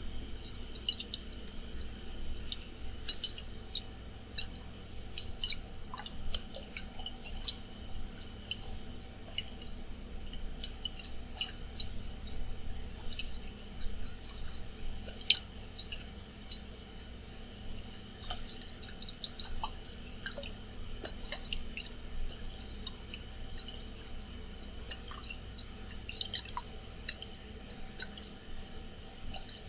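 Water moving and dripping inside a glass bottle as it is handled, giving irregular small clicks and taps. Under it runs a steady air-conditioner hum.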